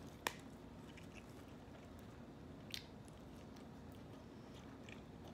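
Faint, close-miked mouth-open chewing of a cheeseburger and sauce-covered fries, with two sharp wet mouth clicks: one just after the start and one a little past halfway.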